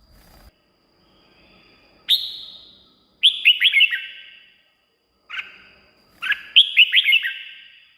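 Red-whiskered bulbul singing in short phrases of quick, falling whistled notes: one note about two seconds in, then several bursts with pauses between them, the longest near the end.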